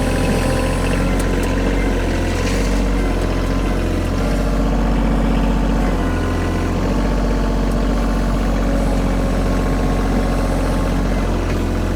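Kioti compact tractor's diesel engine running steadily at a constant speed, with a few faint knocks in the first seconds.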